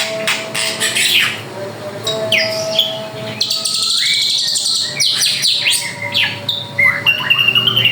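A drongo (srigunting) singing a fast, varied song of quick sweeping notes, with a dense buzzy trill for about a second and a half in the middle and a held whistled note near the end.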